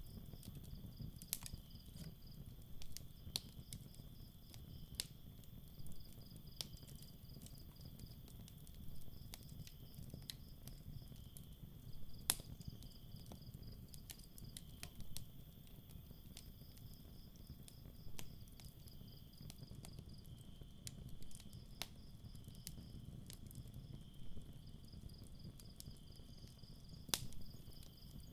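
Campfire crackling, with scattered sharp pops over a low, steady rumble of the flames. Crickets chirp in pulsed trills a second or two long, over and over.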